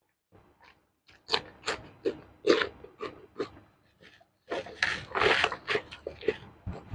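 Close-up chewing and crunching of food in the mouth: a run of crisp crunches a fraction of a second apart, starting about a second in, thickening into denser wet chewing past the middle.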